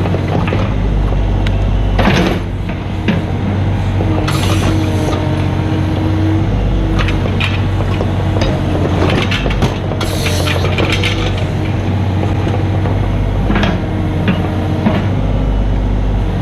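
A mini excavator's diesel engine running steadily under work, with a held whine from about four to seven seconds in. Scattered metal knocks and a few short scraping or hissing bursts, around two, four, ten and thirteen seconds in.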